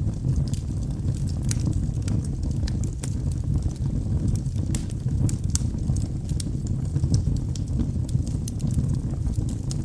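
Wood fire burning in a fireplace: a steady low rush of flame with frequent, irregular sharp crackles and pops of burning logs.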